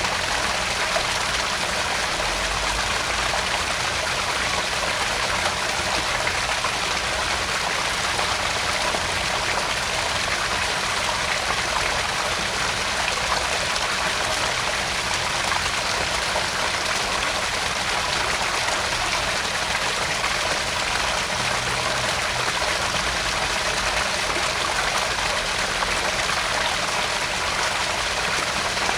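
Small garden pond waterfall: water falling and splashing steadily into the pond.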